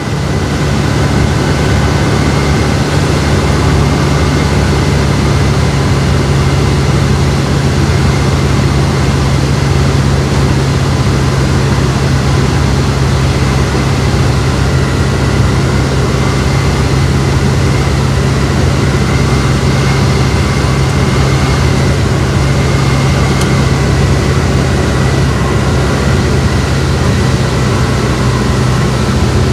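Sling 2 light aircraft's Rotax 912 flat-four engine and propeller running as a steady drone, heard from the cockpit with airflow hiss, on final approach. The low hum drops slightly in pitch near the end.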